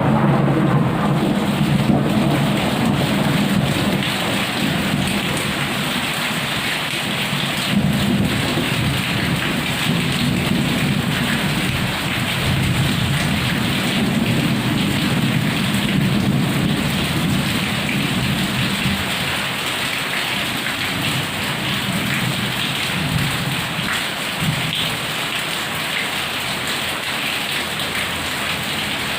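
Heavy rain falling steadily, with a long roll of thunder rumbling loudly at first and dying away about twenty seconds in.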